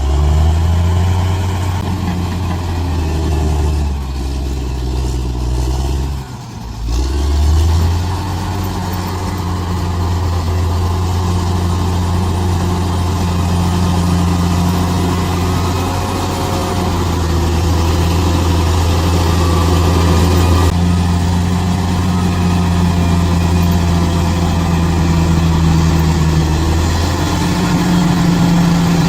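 Bulldozer's diesel engine running steadily under load, with a brief drop in revs about six seconds in before it picks back up.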